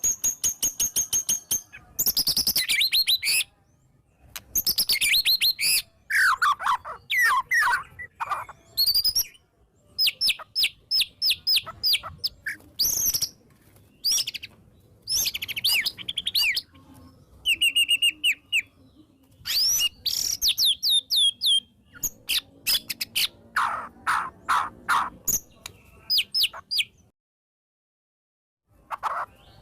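White-rumped shama singing a loud, varied song: rapid strings of repeated notes, sweeping whistles and trills in quick bursts with short pauses between them. The song is packed with mimicked fill-in phrases. Near the end it stops for about a second and a half.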